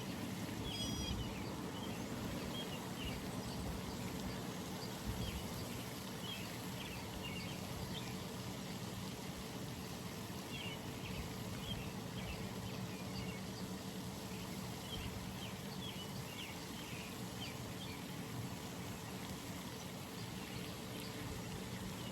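Early-morning pond ambience: a steady background hush with scattered runs of short, high bird chirps.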